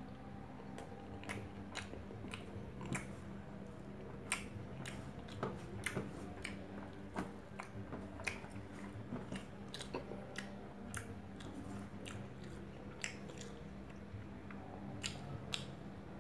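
A person chewing and eating rice and chicken by hand, heard close up: irregular wet clicks and smacks of the mouth, over a low steady hum.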